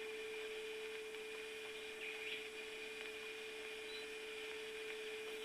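A steady electrical hum at one pitch over a light hiss, with a faint brief chirp about two seconds in.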